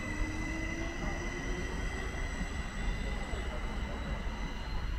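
Train moving through a station: a steady rumble of wheels on rails with high steady whining tones over it, and a faint lower whine rising slightly in the first second or two.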